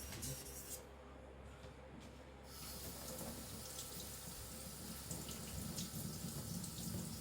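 Water running steadily from a tap, starting about two and a half seconds in.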